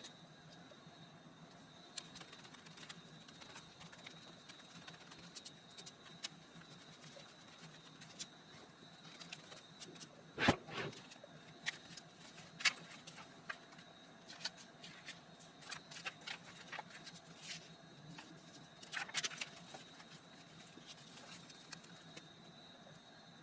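Faint, scattered taps, clicks and rustles of paper and craft materials being handled on a work table. The loudest is a short clatter about ten seconds in. A faint steady high whine runs under them.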